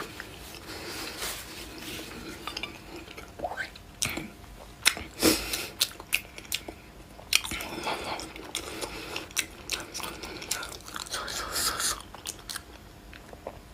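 A person chewing and biting food close to the microphone, with irregular wet smacks and mouth clicks, while eating spicy noodles with eggs.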